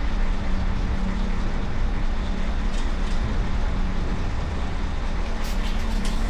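Steady engine running with a constant low hum, with a few sharp clicks near the end.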